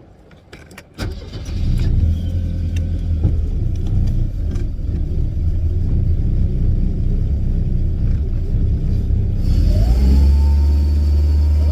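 Boat engine starting about a second in and then running steadily, with the pitch shifting near the end; the engine is known to be hard to start, which the owner puts down to a carburetor in need of a rebuild.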